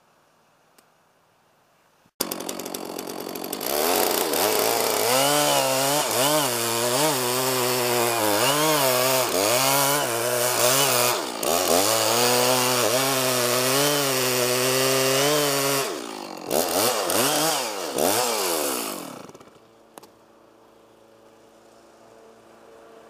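Chainsaw cutting through oak wood, starting suddenly about two seconds in. Its engine pitch dips and recovers about once a second under load for around fourteen seconds, then it gives a few short revs and dies away, leaving a quieter steady engine hum.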